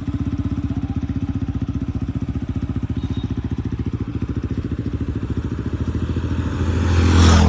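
Motorcycle engine running at a steady pace with an even, fast pulsing beat. Near the end it gets louder, with a rush of noise swelling over it.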